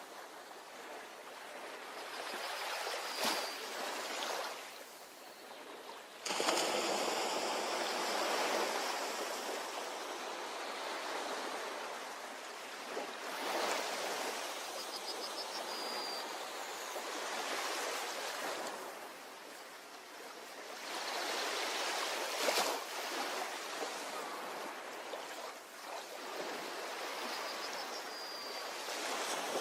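Ocean waves washing onto a beach, the surf swelling and ebbing every few seconds, with a sudden surge about six seconds in. A faint short high trill is heard three times over the surf.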